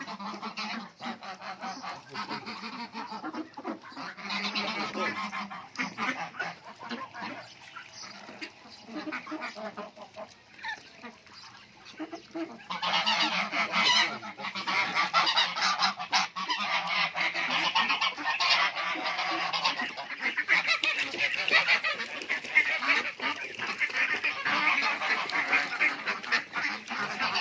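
A flock of domestic ducks calling continuously, many birds at once, getting louder about halfway through.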